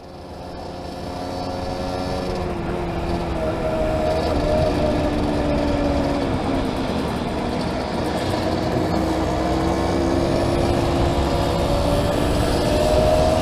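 Small classic motorcycle engine running on the move, its pitch wavering and climbing again near the end, under a heavy low rush of wind on a helmet-mounted microphone. The sound fades in over the first couple of seconds.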